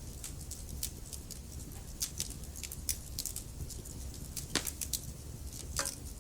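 Wood fire crackling: irregular sharp pops and snaps over a steady low rumble of the flames, with two louder pops about four and a half and nearly six seconds in.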